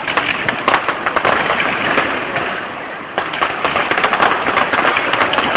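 Fireworks display crackling with many rapid pops. It eases a little in the middle, then picks up again into dense crackling about three seconds in.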